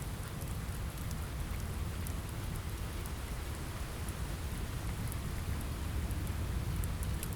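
Steady rain over a low, even rumble, with scattered faint crackles from a wood fire.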